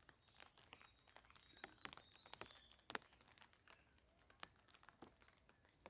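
Near silence, with faint, scattered, irregular clicks and a faint high chirp about a second and a half in.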